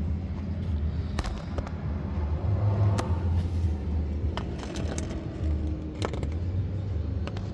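The Daytona 392's 6.4-litre HEMI V8 idling, a steady low rumble heard from beneath the car, with a scattered handful of sharp clicks over it.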